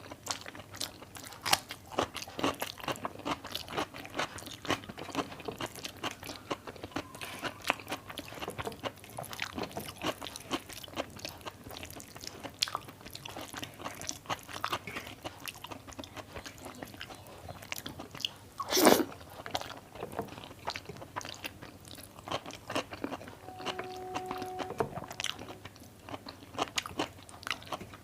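A person eating close to the microphone: chewing and biting, with frequent small crunchy clicks and one louder crunch about two-thirds of the way through.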